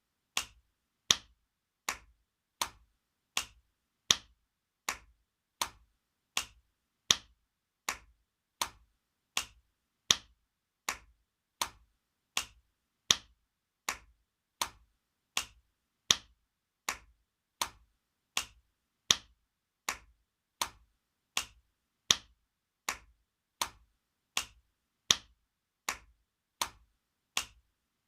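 Spanking sound effect: sharp hand slaps on skin, repeating about twice a second in an even looped pattern, with a louder slap every three seconds.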